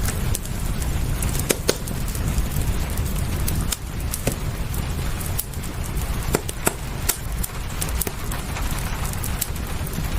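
Wood fire in a fireplace crackling: irregular sharp pops and snaps over a steady low rumble and hiss.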